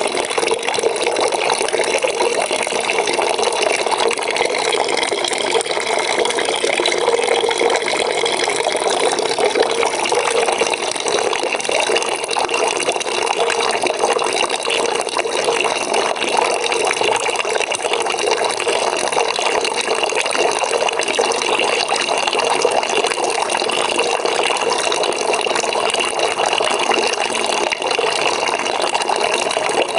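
Water running steadily from a tap into a bucket, a constant splashing fill.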